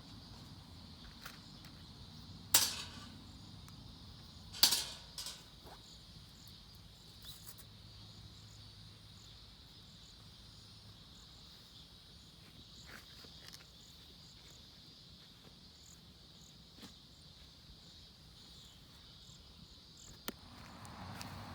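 Insects chirring in a steady, high-pitched drone, with two sharp clacks a few seconds in and a few lighter clicks afterwards.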